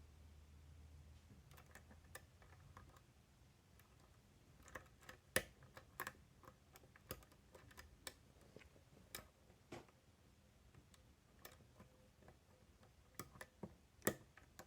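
Light, irregular metallic clicks and ticks of a pick working the wafers inside a Miwa DS lock, starting about four seconds in and scattered through the rest.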